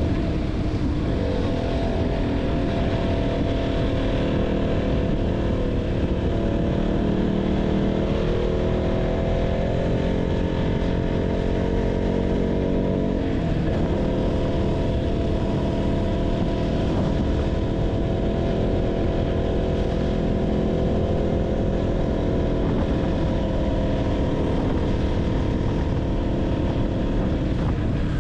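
KTM 200 Duke single-cylinder engine running under way. Its pitch climbs and falls with the throttle, with a brief dip about halfway through, as at a gear change.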